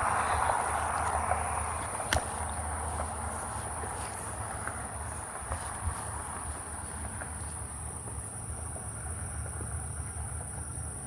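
Insects, such as crickets, trilling in a steady high-pitched chorus, with a rushing noise fading away over the first few seconds and a single sharp click about two seconds in.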